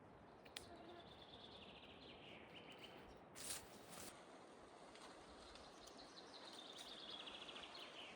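A songbird sings a fast trilled phrase that falls in pitch, twice, over faint outdoor background noise. A brief rustle comes about three and a half seconds in.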